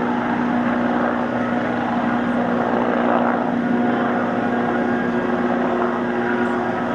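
Westland Wasp helicopter's turbine and rotors running steadily, a continuous hum under a dense rushing noise, as it lifts off and departs.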